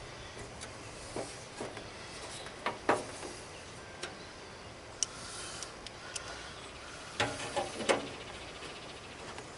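Irregular clicks and knocks of parts being handled during a lawn tractor hood repair, with louder knocks about three seconds in and a cluster near the end.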